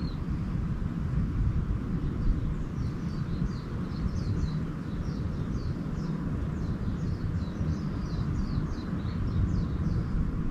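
A small bird sings a quick run of short, high chirps, starting a couple of seconds in and going on until near the end, over a steady low rumble.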